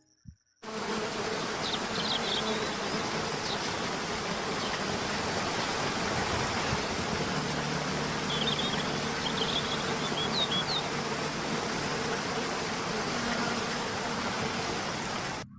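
Steady outdoor hiss with a faint low hum, and a few short high bird chirps about two seconds in and again around eight to eleven seconds.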